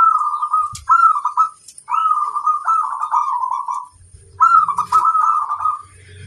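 Zebra dove (perkutut) singing its rolling, bubbling coo song in four phrases separated by short pauses, with faint high chirps of other small birds behind it.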